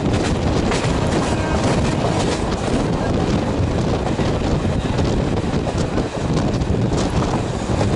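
Wind buffeting the microphone over the steady rumble of a passenger train's coach running at speed on the rails, with a few faint, irregular clicks from the wheels.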